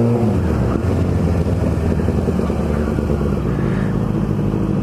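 Sport motorcycle engine coming off the throttle: the revs drop just after the start, then it runs steadily at low revs.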